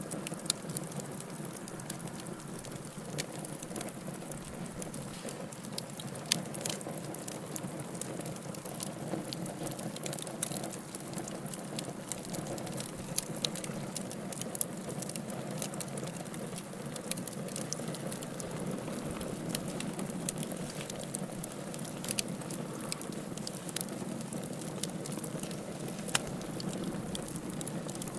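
Wood fire burning in a fireplace: a steady low hiss and rush of flame with frequent sharp crackles and pops at irregular intervals.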